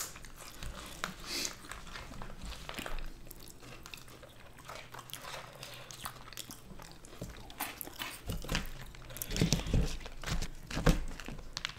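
Close-miked eating sounds: chewing with many small crunches and clicks of fries topped with cheese spread and Flamin' Hot Cheetos, getting louder near the end.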